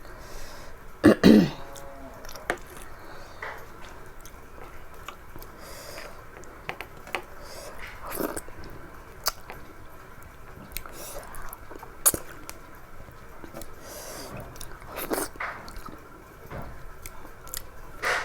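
Chewing and small mouth clicks and smacks of a person eating rice and curry, scattered through the stretch, with a short throat clear about a second in as the loudest sound.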